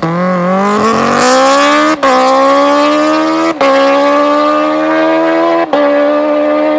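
Kawasaki Ninja H2's supercharged inline-four with a loud exhaust, accelerating hard. The engine note climbs steadily, broken by three brief cuts, about two seconds in, near the middle and near the end, like quick upshifts.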